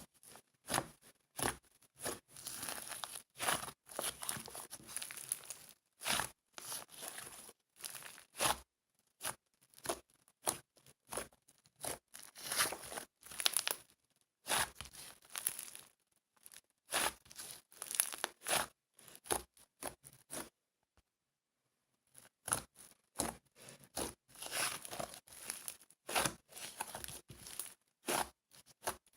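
Rapid runs of short crinkling, tearing sounds from something being handled, with a break of about a second and a half about two-thirds of the way through.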